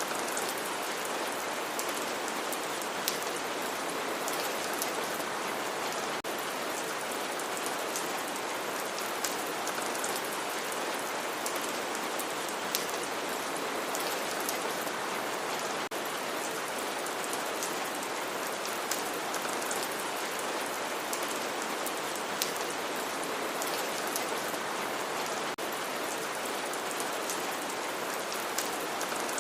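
Steady rain falling, an even hiss with scattered sharper drops hitting a surface.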